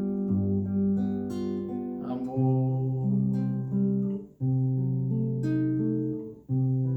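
Acoustic guitar playing an instrumental passage of held chords over a bass line, with a brief break in the sound twice, about four and six and a half seconds in.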